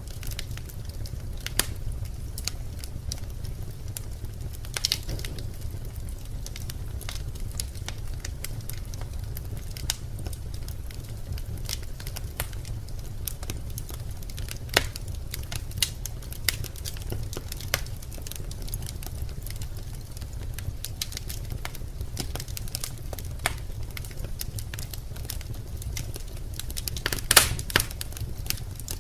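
Birch logs burning in a fireplace, crackling with scattered sharp pops over a steady low rumble of the fire. A quick run of louder pops comes near the end.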